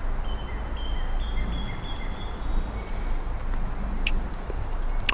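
A bird singing a series of thin, high whistled notes that step upward in pitch, over a steady low background rumble. Two sharp clicks come near the end.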